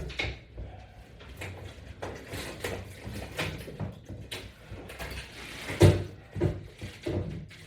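Irregular knocks and clicks of exercise attachments being handled and hooked onto a latch bar, the loudest knock about six seconds in.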